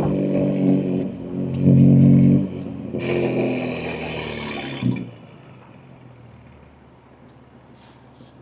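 BMW M2 G87's twin-turbo S58 straight-six, with catless downpipes and an equal-length mid pipe, pulling hard through the exhaust, with a short dip about a second in and the loudest stretch around two seconds in. A hissing rush follows for about two seconds, ending in a thump, after which the engine settles to a quiet, steady hum.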